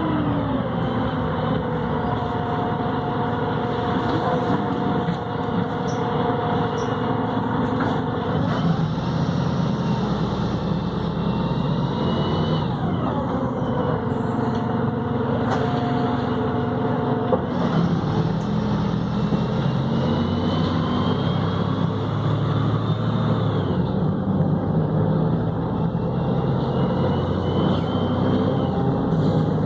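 Volvo B7RLE city bus with a Voith automatic gearbox under way, its engine and transmission whine gliding down and up in pitch several times as the bus slows and pulls away again.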